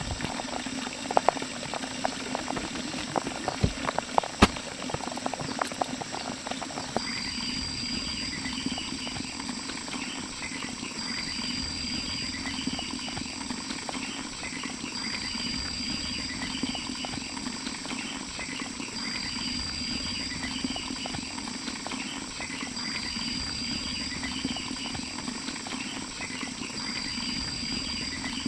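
Sharp crackling and popping for about the first seven seconds, then a sudden change to a steady chorus of insects chirping in a pulsing rhythm. A higher note repeats roughly every four seconds through the chorus.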